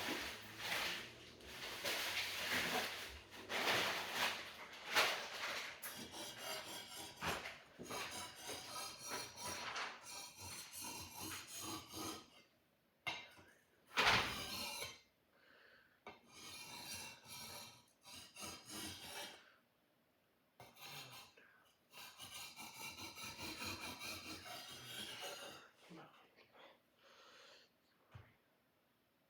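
Sword blade being sharpened: repeated rasping strokes along the metal, in several runs separated by short pauses, with one louder single stroke about halfway through.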